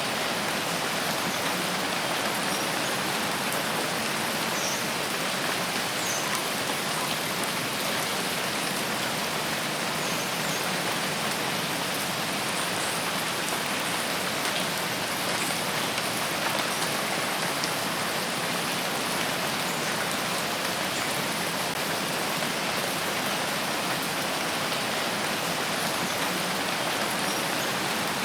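Steady rain falling in a forest, an even wash of drops on leaves and surfaces.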